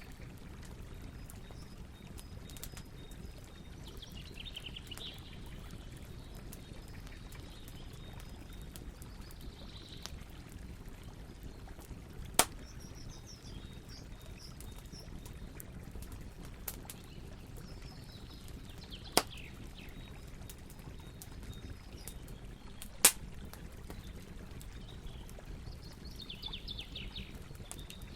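Campfire burning with a steady low rumble and scattered small crackles, broken by three sharp, louder pops in the second half. Birds call faintly now and then in the background.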